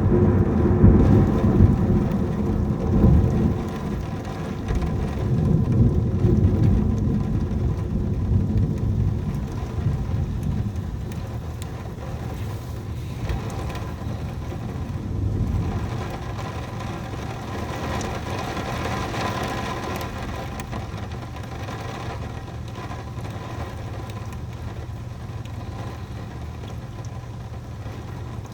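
A thunderclap breaks suddenly and rolls on for about ten seconds, fading into the steady noise of heavy rain, with a steady low hum underneath.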